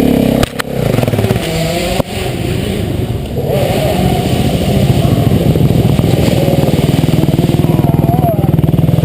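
Motocross bike engine heard from on the bike, revving hard, cutting out briefly with sharp clicks about half a second and two seconds in, then building back to a steady high-revving run.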